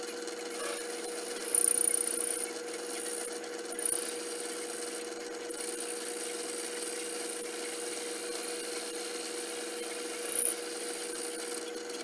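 Small machine tool running steadily while cutting metal, with several short high-pitched squeals from the cut. The sound stops at the very end.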